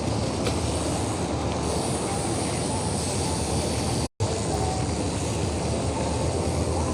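Steady rumble of wind buffeting the microphone and road noise while riding a bicycle in traffic, cutting out for a split second about four seconds in.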